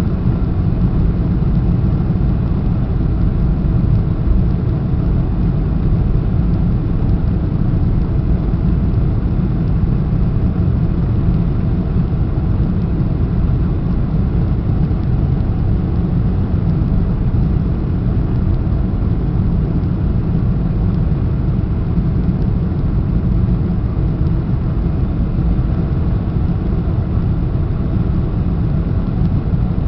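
Inside the cabin of a Boeing 747-400 in flight: a steady, even low rumble of engines and rushing air that does not change.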